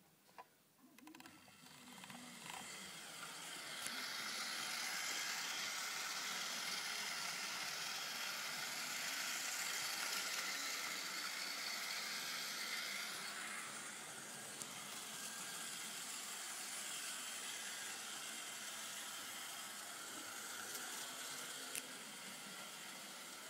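Märklin model train running on the layout: a steady whirring hiss of its small electric motor and wheels on the track. It builds over the first few seconds and eases off after about 13 seconds. A couple of sharp clicks come in the second half.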